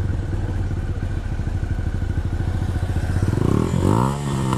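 Yamaha R6's inline-four engine idling steadily, then revved once near the end, its pitch sweeping up and dropping back.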